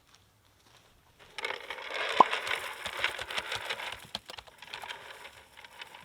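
A burst of rustling and rattling with many quick small clicks, starting about a second in and fading over the next few seconds. About two seconds in, a brief sharp sound slides down in pitch.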